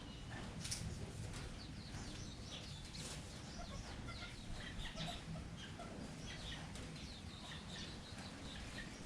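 Red junglefowl clucking, among many short, high, falling chirps, over a steady low rumble. A couple of brief sharp clicks or rustles come in the first few seconds.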